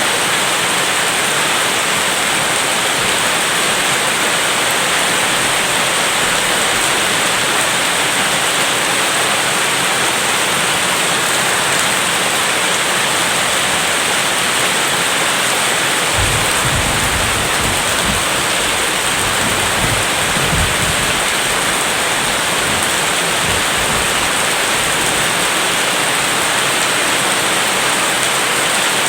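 Steady heavy rain. About halfway through, a low rumble of distant thunder swells several times for several seconds, then fades back into the rain.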